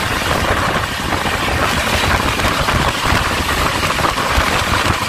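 Steady engine and running noise of a moving vehicle, heard from on board: a low rumble under a constant rushing hiss.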